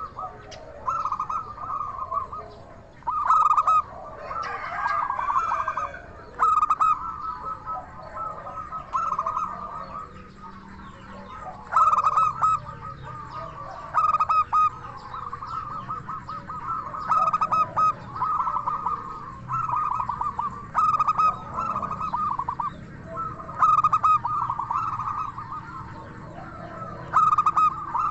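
Zebra dove (perkutut) singing its rhythmic, rapidly pulsed cooing song, each phrase about a second long and repeated every couple of seconds.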